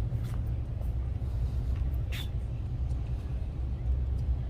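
Wind buffeting the microphone outdoors: a low, gusting rumble. A short hiss comes about two seconds in.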